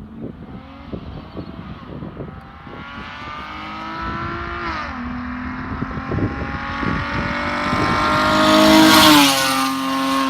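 Dodge muscle car's exhaust under hard acceleration, rising in pitch and growing louder, with two upshifts where the pitch drops sharply, about halfway through and near the end.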